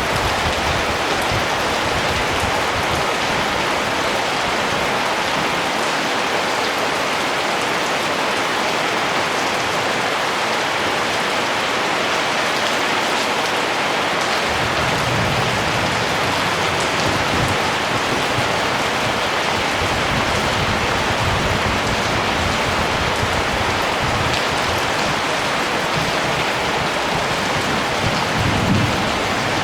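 Steady, even rainfall. Soft low rumbles come and go from about halfway through.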